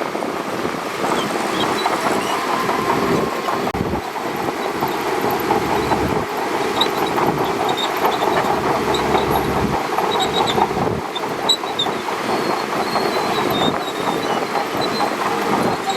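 Shantui DH17C2 crawler bulldozer moving, its steel tracks clanking and squeaking steadily over the running engine.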